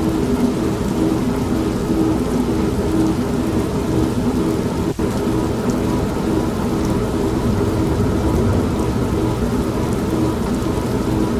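Steady rain with low thunder rumble, mixed with an old washing machine's motor running as a pulsing hum. The sound dips briefly about five seconds in.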